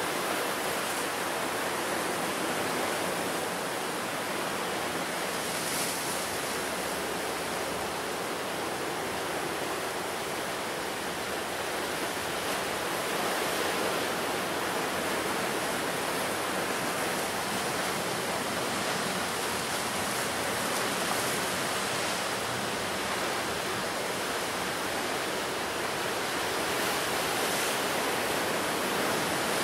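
Ocean surf breaking on a rocky coast: a steady rush of waves, with a brighter wash of spray about six seconds in and again near the end.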